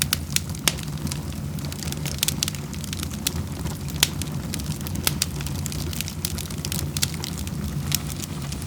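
Wood fire burning in a fireplace: a low steady rumble with frequent irregular crackles and pops.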